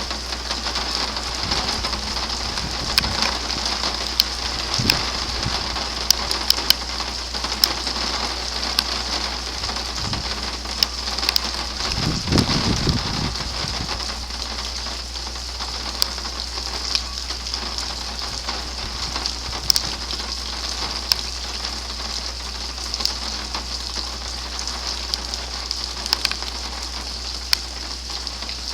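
Steady thunderstorm rain hissing down, with scattered sharp ticks of drops striking nearby surfaces. A brief low rumble comes about halfway through.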